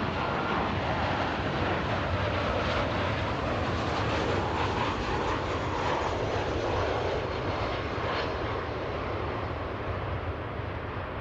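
Jet airliner engines passing, a steady noisy rush that swells about halfway through and then eases off.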